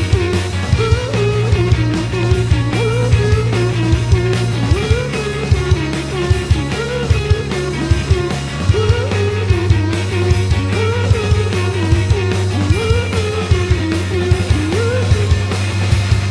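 Indie rock band playing live, with drums, bass and guitar. A short melodic phrase repeats about every two seconds over a steady bass and regular drum hits.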